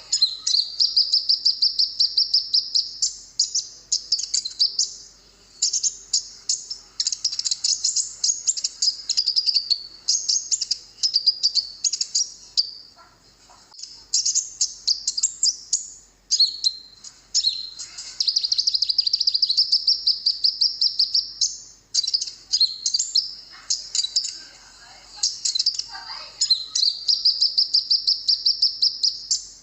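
Kolibri ninja (purple-throated sunbird) singing: rapid high trills and twittering chatter in phrases a few seconds long, with short pauses between them.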